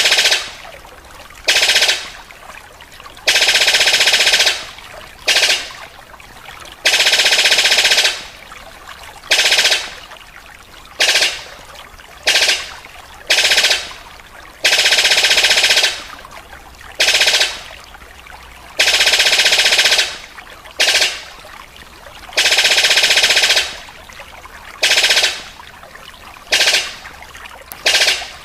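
A bird's harsh, rapid rattling call, repeated over and over in bursts of one to two seconds with short gaps between.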